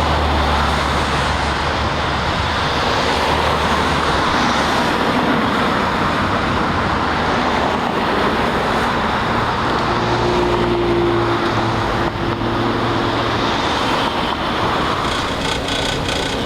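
Steady road traffic noise: vehicle engines running, with a low engine drone and the hiss of tyres on the road.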